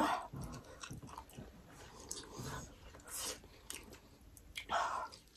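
People chewing and eating momos, faint mouth sounds with small scattered clicks, and a short vocal sound near the end.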